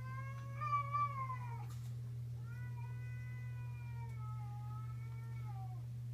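A domestic cat meowing in two long, drawn-out yowls that fall in pitch at the end. The first trails off about a second and a half in; the second runs from about two and a half to five and a half seconds. A steady low hum lies underneath.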